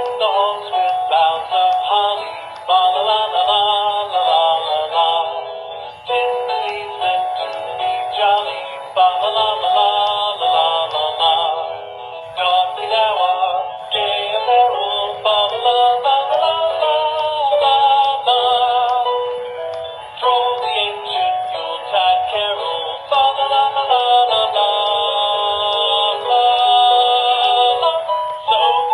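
Hallmark Sing-Along Showman Snowman plush toy playing its song, a singing voice over music from its small built-in speaker. The sound is thin, with no bass.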